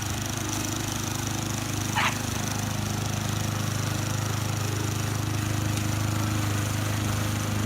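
A steady low mechanical hum, like a motor running, with a brief high squeak about two seconds in.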